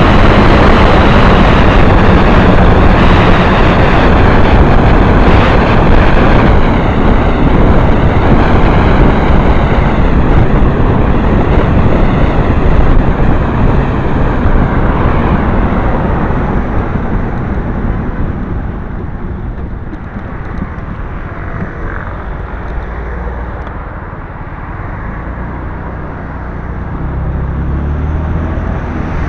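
Motorcycle on the move, its engine mixed with a loud rushing noise. The sound eases off from about 18 seconds in as the bike slows, then picks up again near the end.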